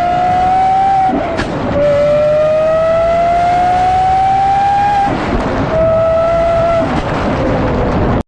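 High-revving car engine accelerating hard, its pitch climbing and dropping back at two upshifts, about a second in and about five seconds in, with a sharp crack at the first shift. The revs then ease off and fall near the end.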